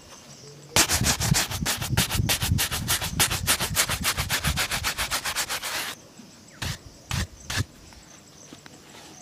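A leather shoe being rubbed during shoe shining, in fast back-and-forth strokes of about eight a second that stop about six seconds in. Three single strokes follow.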